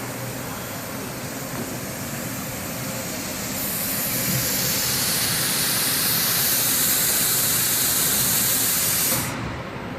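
Hypertherm HyPerformance plasma torch hissing as it cuts steel sheet. It gets louder about three and a half seconds in, and the hiss cuts off sharply near the end as the arc stops.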